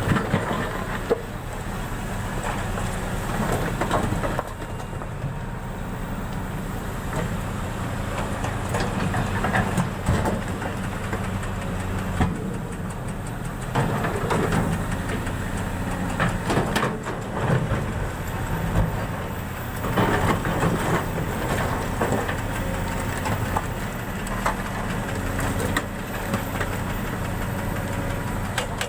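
An engine running steadily at a low pitch, with scattered knocks and clatters.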